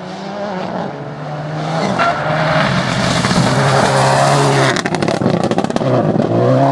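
Rally car engine at high revs, approaching and growing louder, with a quick run of sharp cracks about five seconds in before the engine note returns.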